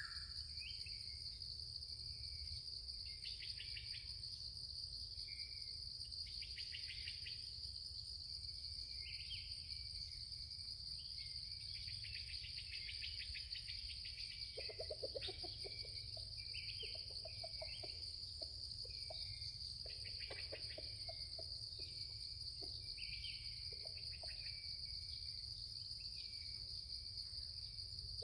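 Steady high-pitched chirring of insects, crickets or cicadas, with short bird calls coming and going. About halfway through, bursts of low rapid pulses join in for several seconds.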